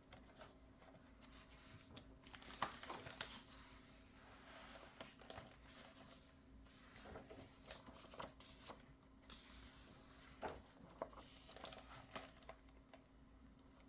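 Faint paper rustling and soft clicks of a picture book being handled and its pages turned, in scattered short swishes.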